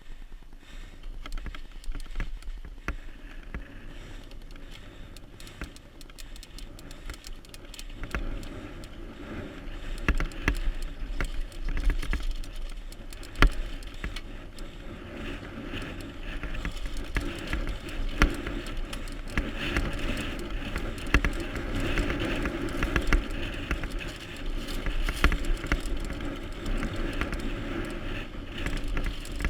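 Mountain bike riding over rough ground downhill: tyre noise with many sharp rattling clicks and knocks from the bike, and wind rumbling on the microphone. It gets louder and busier about a third of the way in.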